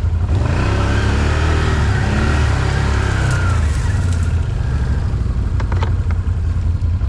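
ATV engine running steadily, a deep, constant engine note close to the microphone.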